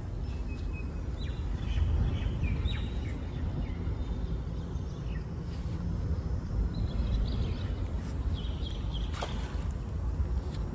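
Steady low rumbling outdoor noise with short, high bird chirps in two spells, about a second in and again about two-thirds of the way through, and one sharp click near the end.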